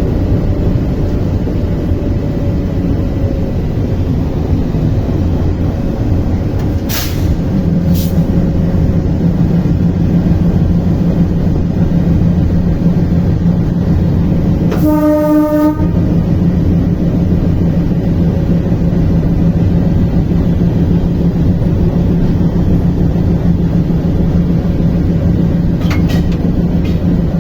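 Train running with a steady low rumble, its horn sounding once for about a second midway. A few sharp clicks come through now and then.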